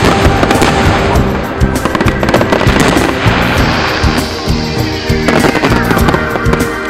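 Fireworks going off in rapid, dense volleys of bangs and crackles, thickest in the first few seconds, over loud music.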